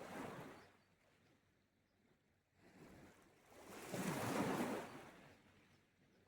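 Sea waves washing onto the shore. One wave fades out at the start, and a louder one swells and breaks about four seconds in, with quiet stretches between.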